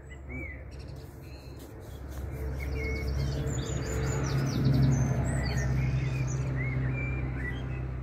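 Small birds chirping and twittering, over a low steady hum that swells to its loudest about five seconds in and then eases off.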